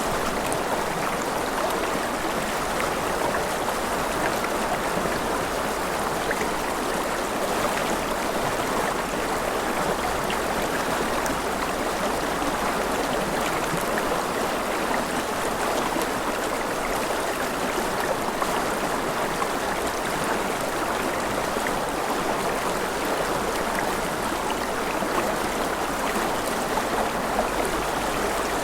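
Gentle rain falling steadily: an even hiss of water with faint scattered drop ticks, unchanging throughout.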